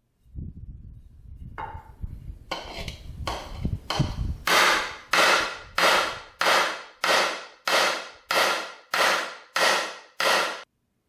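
Hammer pounding a raised lip flat on the dirt bike's metal side cover, where something inside had been grinding against it. A few lighter blows over a low rumble come first, then about ten hard, evenly spaced strikes, roughly one and a half a second, each ringing briefly.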